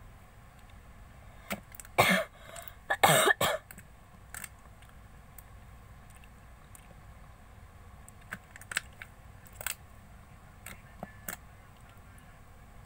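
Slime being kneaded and squished by hand: two louder squishes about a second apart early on, then scattered small clicks and pops later.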